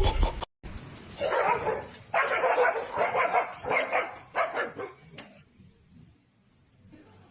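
A dog barking, a run of about six barks over some four seconds.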